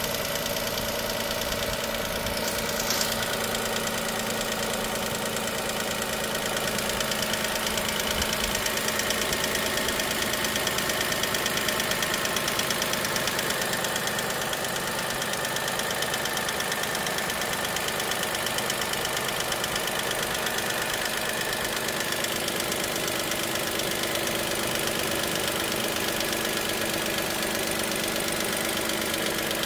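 Dacia Sandero SCe 75's three-cylinder petrol engine idling steadily with a fast, even ticking over the idle, the ticking noise the owner treats as a problem.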